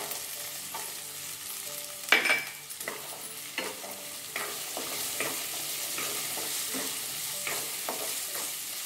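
Green peas and sliced onion sizzling in hot oil in a kadai, stirred with a wooden spatula that scrapes across the pan in repeated strokes, one louder knock about two seconds in.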